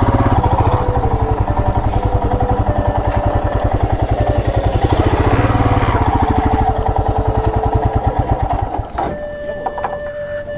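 Royal Enfield Himalayan's single-cylinder engine running under way, a fast steady pulsing exhaust beat. The beat falls away about nine seconds in as the bike slows.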